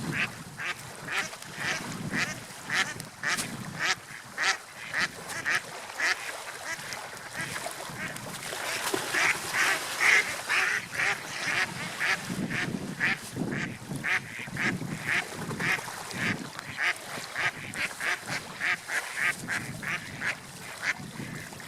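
A run of short, repeated bird calls, two or three a second, over a low rushing background.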